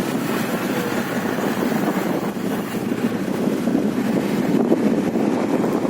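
Steady wind buffeting the microphone over the running noise of a motorcycle under way.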